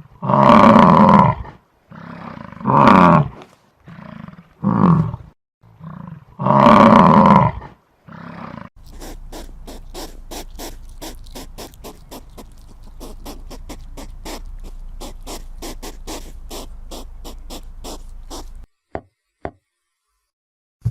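A big cat roaring: four loud roars with shorter, quieter grunts between them over the first eight seconds. This is followed by about ten seconds of an even train of clicks, roughly four a second.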